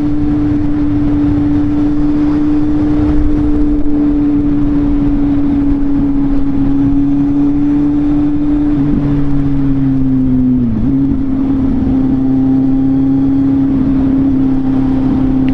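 Kawasaki Z800 inline-four motorcycle engine running at a steady cruise under heavy wind rush. Its pitch dips briefly about ten seconds in and then holds slightly lower.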